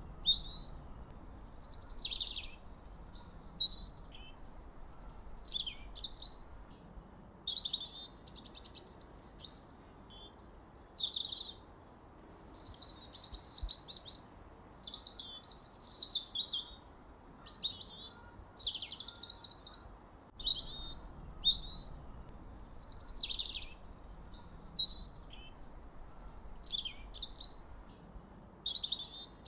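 Birdsong: an unbroken run of short, varied high chirping phrases, over a faint steady background hiss.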